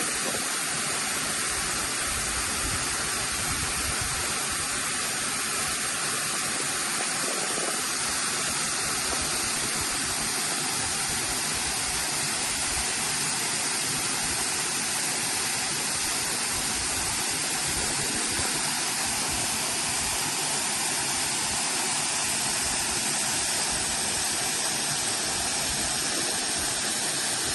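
A waterfall pouring steadily: an even, unchanging rush of falling water.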